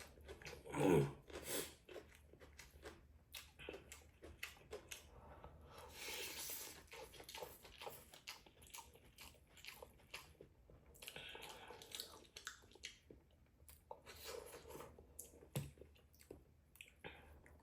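A person eating spicy noodles: many small wet chewing and mouth clicks, with a louder short sound about a second in that falls in pitch.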